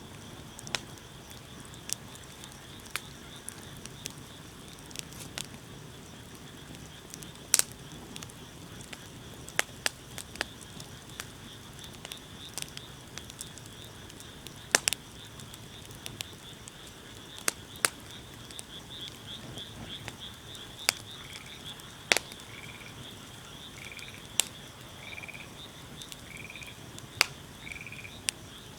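Wood campfire crackling, with irregular sharp snaps and pops over a low steady hiss. Behind it runs a steady high insect trill, and for the last third a short animal call repeats about once every second and a half.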